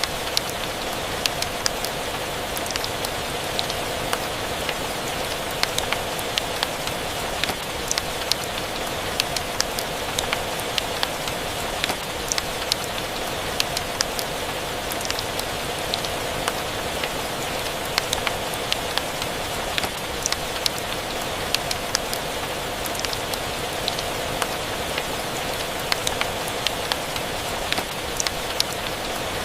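Steady rain: an even hiss with frequent sharp, irregular ticks and pops scattered through it.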